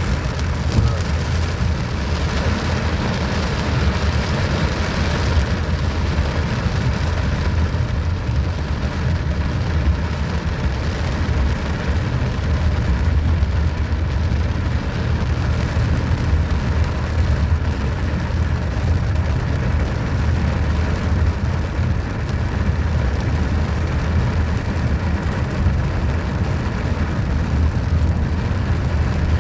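Steady rain falling, under a heavy low rumble that runs throughout; the hiss of the rain is a little stronger in the first few seconds.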